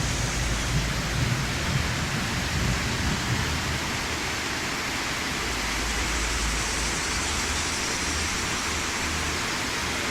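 Steady rushing noise of falling water, with a low rumble under it in the first few seconds that fades, then returns briefly later.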